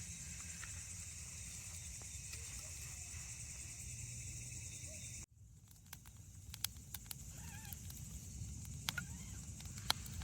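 A steady hiss, then after a sudden cut about halfway, campfire wood crackling with scattered sharp pops.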